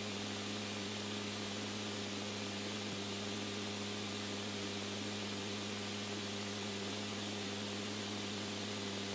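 Steady static hiss with a low, even electrical hum: the background noise of an open radio communications feed between transmissions.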